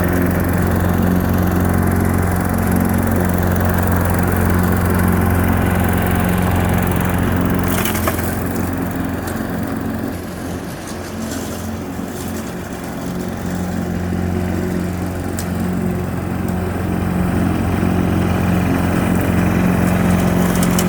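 Briggs & Stratton single-cylinder engine of a 21-inch Craftsman push mower running steadily while cutting grass: after repair and a replacement carburetor, it keeps running. A single sharp crack comes about eight seconds in.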